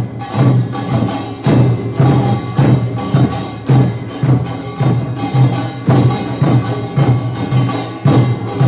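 Korean nongak farmers' band percussion, drums and gongs, playing a steady driving rhythm of strikes about twice a second.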